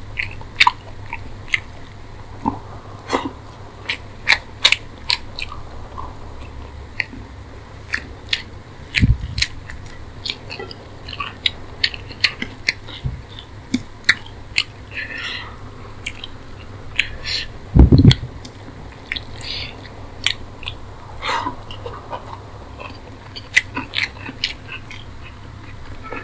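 Close-miked eating sounds from a person eating rice and curry by hand: wet chewing with many sharp mouth clicks and smacks. Two dull thumps stand out, the louder one about two-thirds of the way through.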